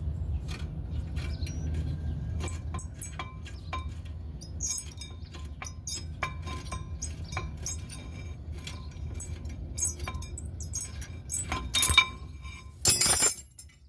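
Hand tools and steel brake hardware clinking and ticking irregularly as the caliper bracket bolts are worked loose, over a steady low hum. A short rasping burst comes near the end.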